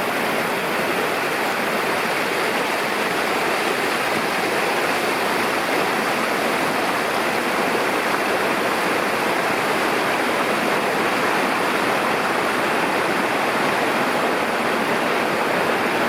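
Mountain river rushing: a steady, even rush of water.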